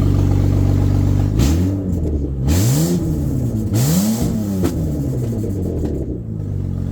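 Turbocharged BMW 328i straight-six engine idling, then revved three times in quick succession, each rev climbing and dropping back to idle, the third the highest.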